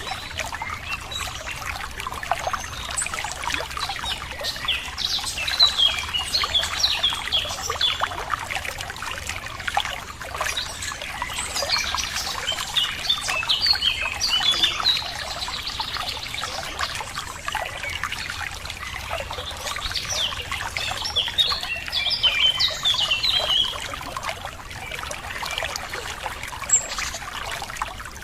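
Water running and trickling steadily, with small birds chirping over it in several bursts of quick calls.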